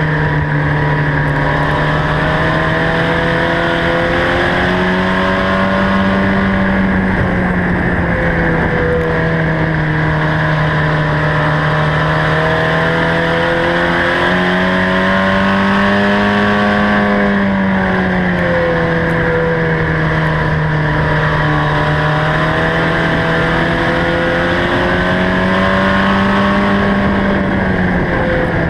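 Mini truck race engines running hard during a race, several engines at once, their pitch rising and falling in a repeating cycle about every ten seconds.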